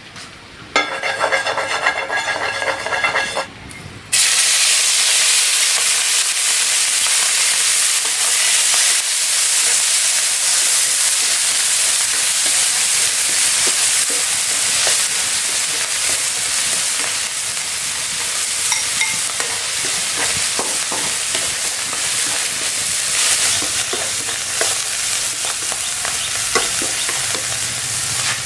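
Food frying in hot oil in a pan, starting with a sudden loud sizzle about four seconds in and then sizzling steadily, with light clicks from stirring.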